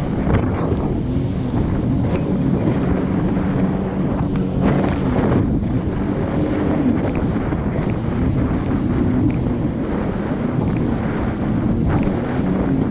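Jet ski engine running under way, its drone wavering in pitch, with heavy wind buffeting the microphone and occasional gusts or splashes.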